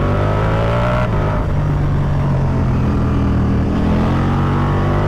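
Ducati Multistrada V4 Pikes Peak's V4 engine accelerating out of a corner, rising in pitch, with upshifts about a second in and again near four seconds in, over steady wind rush.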